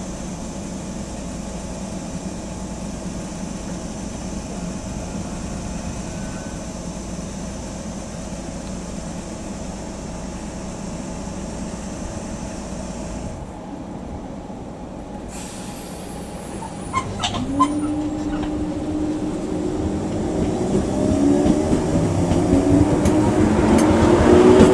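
A train's steady rumble and hum, then a few sharp clicks and a train's motors whining upward in pitch, growing louder as it accelerates.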